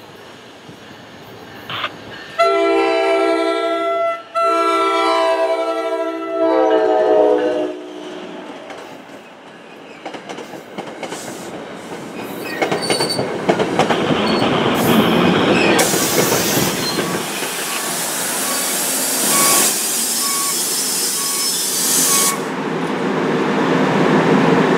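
NJ Transit commuter train sounding its horn on approach: two long blasts, the pitch sliding down at the end of the second. The train then rolls in along the platform and brakes to a stop, the wheel and brake noise growing louder, with a loud rushing hiss for several seconds.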